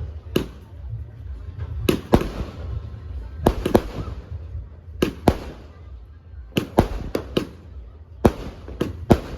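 A 150-shot fireworks cake firing: sharp bangs going off irregularly, one to three a second and often in quick pairs, over a steady low rumble.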